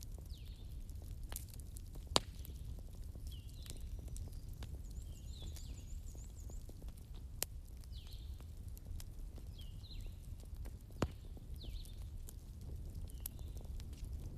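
Fire crackling, with scattered sharp pops over a steady low rumble; two pops, about two seconds in and about eleven seconds in, are clearly louder. Faint short high chirps recur every second or two.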